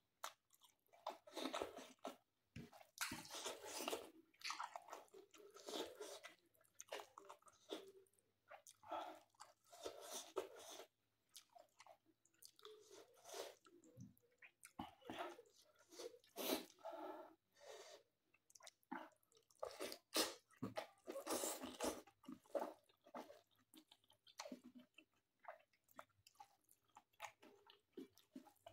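Close-up chewing of mouthfuls of rice, mutton and squash leaves, with crunching, coming in irregular bursts with short pauses between them.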